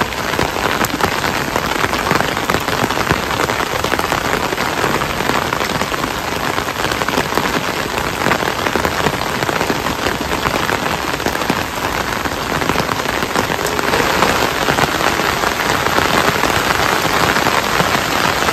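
Steady rain falling: an even, dense hiss of drops that keeps up without a break.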